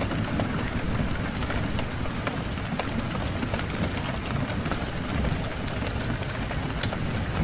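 Fireplace fire crackling, with many scattered sharp pops over a steady low rumble of wind.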